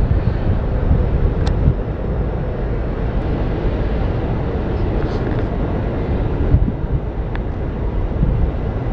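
Steady low engine rumble heard aboard a river boat, with a few faint clicks.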